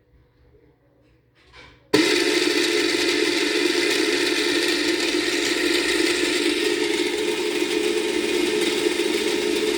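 A mini foldable washing machine is quiet for about two seconds, with a few faint clicks. Then its motor starts abruptly and runs steadily, agitating the wash load with a constant hum and a rattle.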